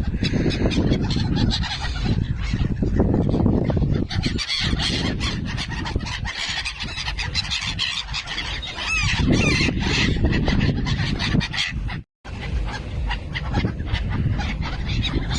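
A flock of seabirds and crows calling while feeding on scattered popcorn, over a steady low rumble. Short calls that glide in pitch stand out about nine seconds in. The sound drops out for a moment about twelve seconds in.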